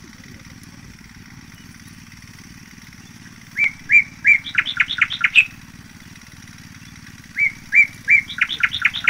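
A songbird singing two phrases about four seconds apart, each a few separate rising whistled notes that run into a quick string of notes. A steady low hum continues underneath.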